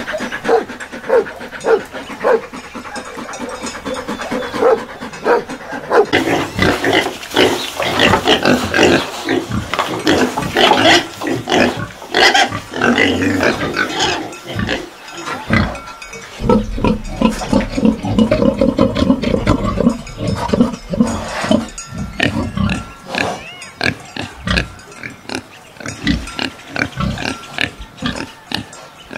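A dog panting for the first few seconds, then pigs and piglets grunting and squealing, many short calls in quick succession.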